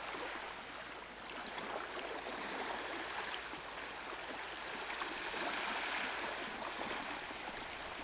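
Small waves lapping at a sandy lakeshore: a steady wash of water with many small irregular splashes.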